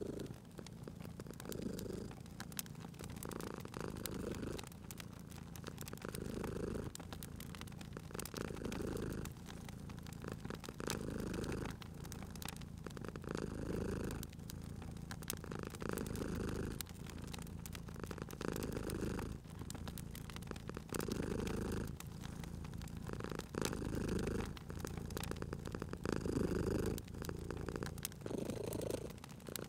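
Domestic cat purring close up, the low rumble swelling and fading in a steady rhythm with each breath, over the light, scattered crackle of a wood fire.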